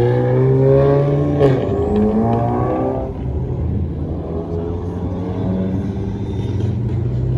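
Car engine running at raised revs, its pitch climbing slightly, then settling to a steady idle about three seconds in.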